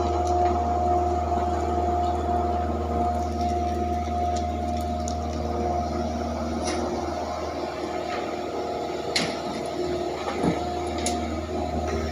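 An excavator's diesel engine running at a steady speed, with a few sharp knocks in the second half.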